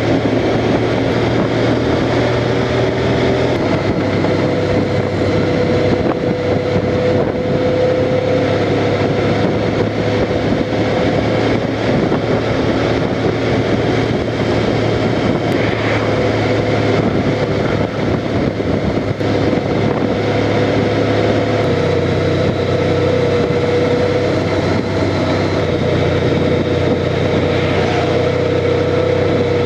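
Honda Crosstourer's V4 engine running steadily while riding, with wind rushing over the helmet-camera microphone; the low engine note changes slightly a few seconds in and again about two-thirds of the way through.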